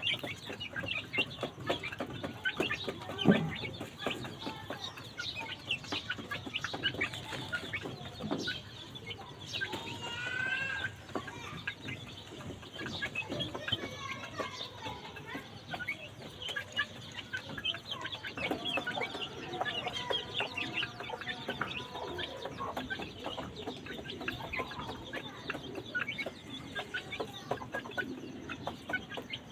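Aseel chickens clucking and calling, over many short sharp clicks and knocks, with one loud knock about three seconds in.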